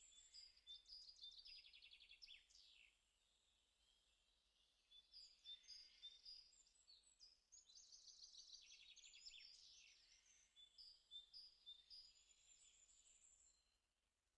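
Faint birdsong: rapid high trills and chirps, in two bouts with a lull from about three to five seconds in, fading out near the end.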